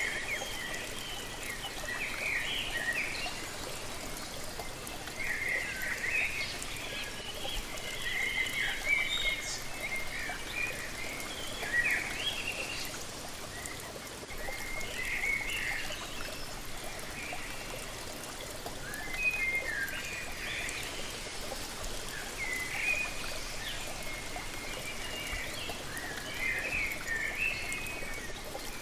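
Steady rushing of a waterfall, with small birds chirping and twittering in short phrases again and again over it.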